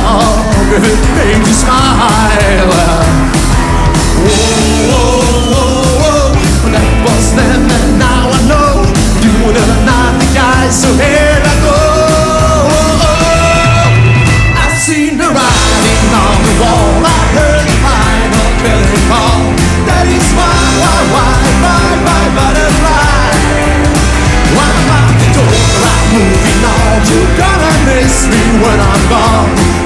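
Live rockabilly band playing a rock and roll song, with a melody line bending over a steady beat. There is a brief break in the band about fifteen seconds in.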